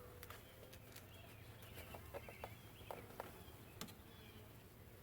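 Faint outdoor background: a few small bird chirps and some scattered light clicks over a low steady hum.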